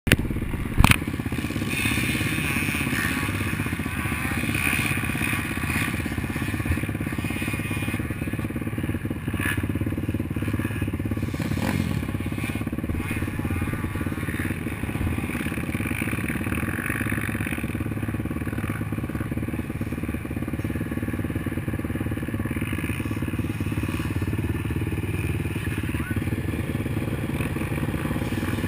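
Off-road racing engine running steadily, with a single sharp knock about a second in.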